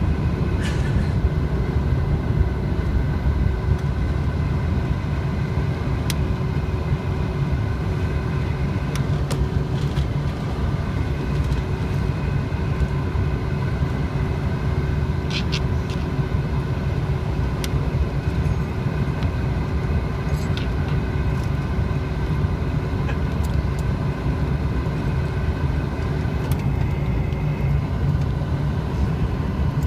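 Cabin sound of a Bombardier CRJ-900's rear-mounted General Electric CF34 turbofan engines running: a steady low rumble with constant whining tones, pitch and level unchanging, and a few faint clicks.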